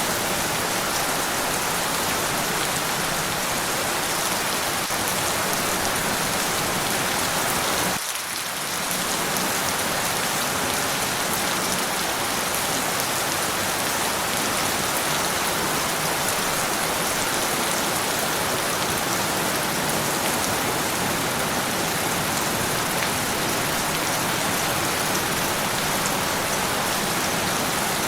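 Steady, dense rain falling, with a brief dip in level about eight seconds in.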